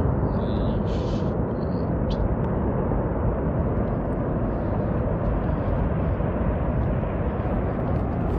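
A steady, deep rumbling roar of noise that holds at one level throughout, with a few faint high ticks about a second in.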